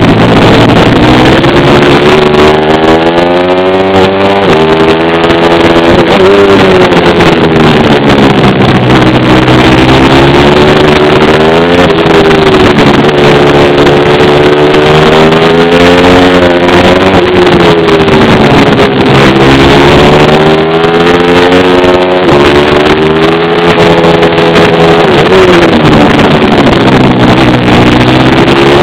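Pit bike engine being ridden hard: it revs up and drops back over and over, every few seconds, as it is run through the gears and backed off. The sound is loud and harsh.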